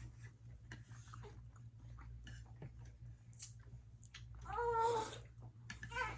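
A baby's short, fussy whining cry about four and a half seconds in, with faint eating clicks and mouth sounds around it.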